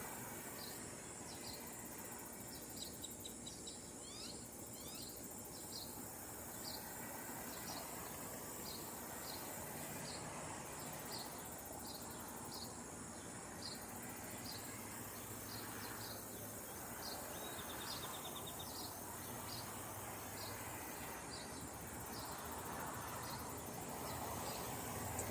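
Crickets chirping outdoors: an evenly repeated chirp, about three every two seconds, over a steady high insect trill.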